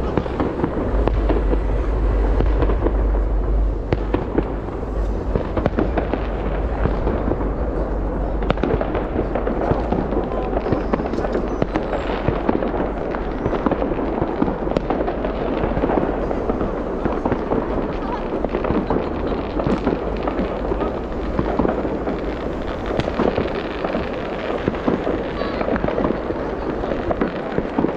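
Fireworks going off in rapid succession: a dense, continuous crackle of pops and bangs with a heavy low rumble under the first half.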